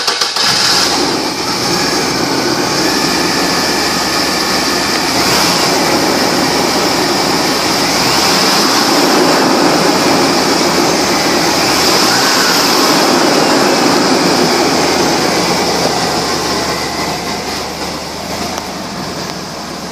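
1997 Chevy S10 Blazer's 4.3-litre V6 engine running steadily at idle just after starting. It is a little quieter near the end.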